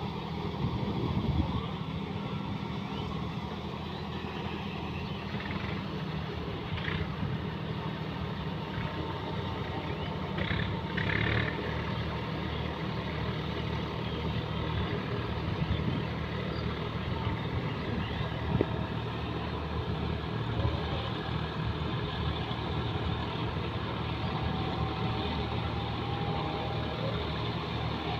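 John Deere 5210 tractor's diesel engine running steadily.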